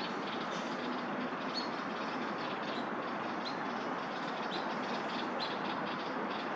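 Steady roar of city traffic, with small birds chirping in short notes every second or so.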